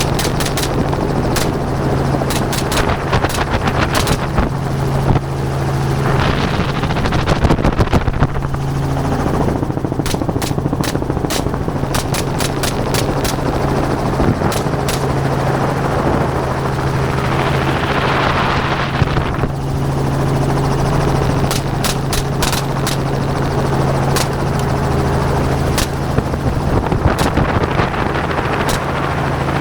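Helicopter running steadily in flight, with gunshots cracking out from it in irregular strings, several at times in quick succession.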